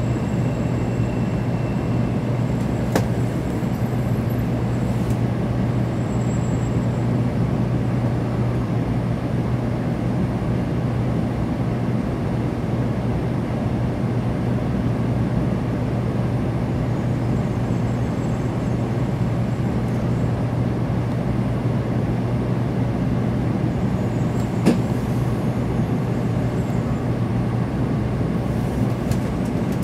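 Steady low rumble and hum of a 700 series Shinkansen car, heard from inside the passenger cabin as the train runs slowly alongside a station platform. Two sharp clicks cut through it, one a few seconds in and one about five seconds before the end.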